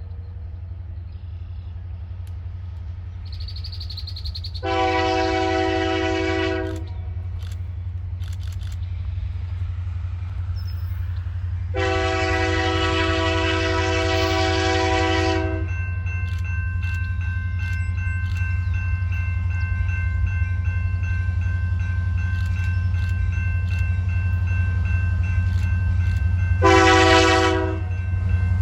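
CN train's diesel locomotive horn sounding the grade-crossing pattern over the steady rumble of the train: a long blast about five seconds in, a longer one about twelve seconds in, and a short one near the end. A bell rings steadily from about halfway.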